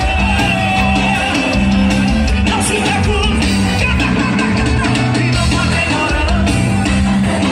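A live worship band playing a loud, driving song with bass, drums, guitar and voices singing.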